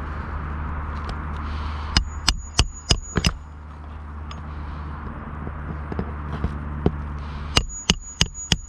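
Hand hammer striking on an asphalt shingle roof: a quick run of about five ringing metallic blows, then a pause and about four more near the end, over a steady low background rumble.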